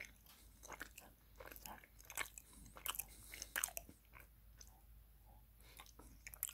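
A person chewing a mouthful of soft salted caramel and chocolate tart close to the microphone: wet mouth smacks and clicks, busiest in the first four seconds, then fainter.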